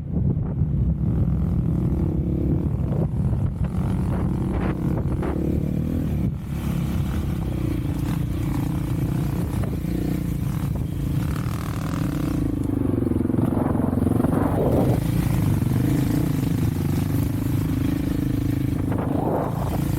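Off-road vehicle engine running continuously while under way, its pitch rising and falling a little with the throttle, with occasional short knocks and rattles.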